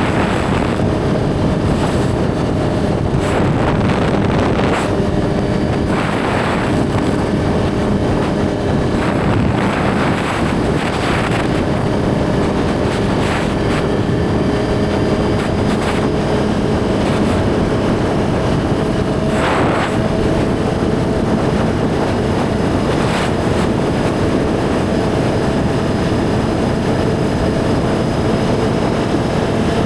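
Suzuki GSX-R1000 sport bike's inline-four engine running at steady revs while riding, with wind noise on the microphone and a few brief gusts.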